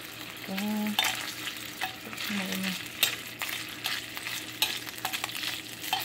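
Small pieces of pork fat sizzling in a stainless steel frying pan as they are stirred, the utensil scraping and knocking against the pan several times.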